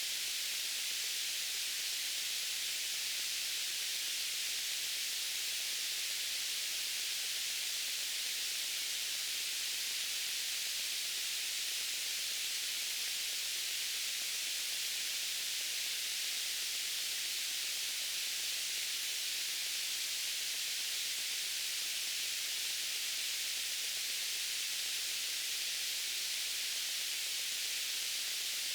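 Steady white-noise hiss, even and unchanging, strongest in the upper range with little low end.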